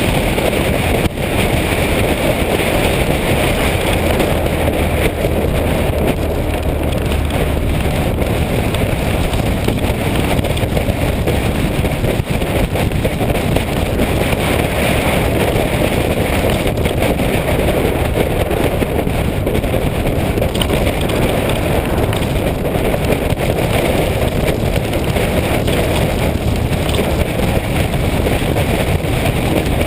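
Motorcycle riding at steady speed: the engine runs under loud, steady wind noise on the microphone.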